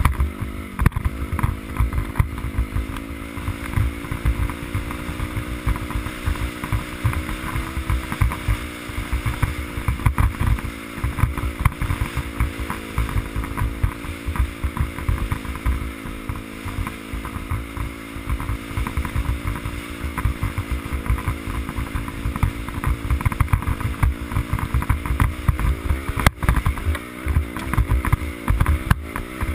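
Dirt bike engine running at a steady cruise, its pitch dipping slightly now and then, under heavy wind buffeting on the microphone. A single sharp knock comes near the end.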